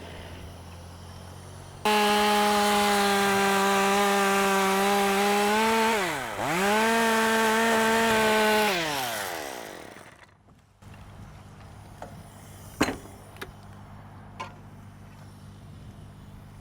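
Chainsaw opened to full throttle about two seconds in. Its pitch dips sharply and recovers once as it bogs in the cut, then it is let off, winds down and stops. A low steady engine drone and a few sharp knocks follow.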